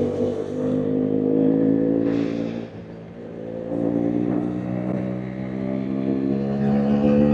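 KTM RC 390's single-cylinder engine and exhaust under throttle. The revs are held, then drop for about a second a little over two seconds in, as for a throttle-off or gear change, and then climb steadily with a rising pitch as the bike accelerates again.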